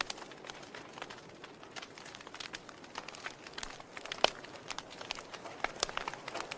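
Wood fire burning in a fireplace: irregular sharp crackles and pops over a soft hiss, with one louder pop a little past four seconds in.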